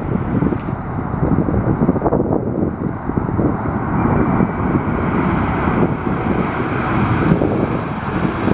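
Airbus A320 jet engines at takeoff power, a steady rumble, with strong wind buffeting the microphone.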